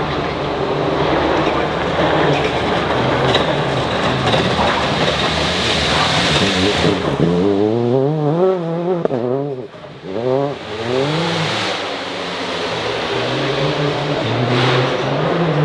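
Rally car engine revving hard, its pitch swinging up and down quickly several times around the middle as the throttle is lifted and reapplied, with a short dip in loudness partway through.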